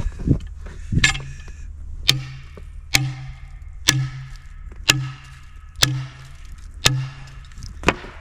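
Eight sharp, evenly paced strikes, about one a second, each followed by a brief low ring, like hammer blows knocking a heavy piece of wood into place.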